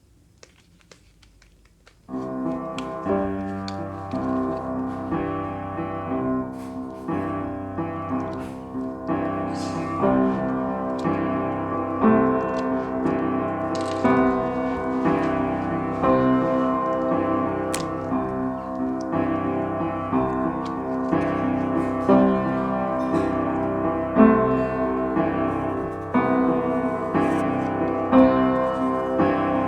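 Piano music: after about two seconds of near quiet, a piano piece starts and plays on steadily, with chords struck every second or so.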